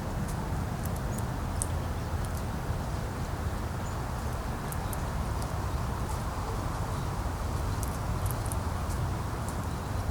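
Wind buffeting the microphone: a steady low rumble with a rushing hiss. Short, high-pitched ticks come scattered through it.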